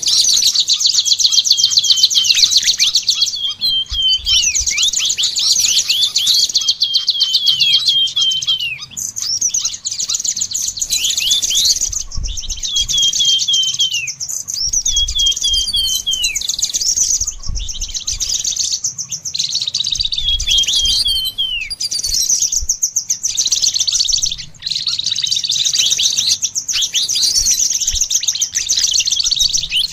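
Small songbirds singing continuously in a dense, high-pitched twittering chatter, broken by runs of short falling notes.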